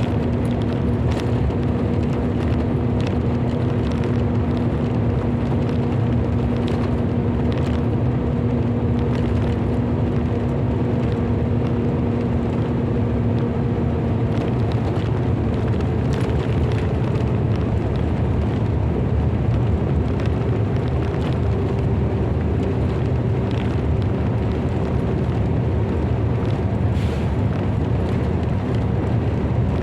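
Steady low rumbling noise at an even level, with a hum held at one pitch that shifts slightly about halfway through.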